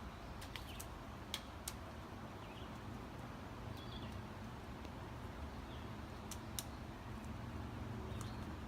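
Woodpecker pecking at wood in sharp single taps, irregularly spaced: a few in the first two seconds and a close pair about six and a half seconds in. Faint short bird chirps come in between.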